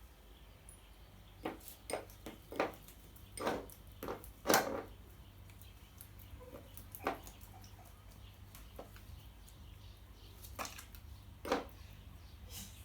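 A bird pecking at cat food in a dish: irregular sharp taps and clicks of the beak against the food and bowl, the loudest about four and a half seconds in.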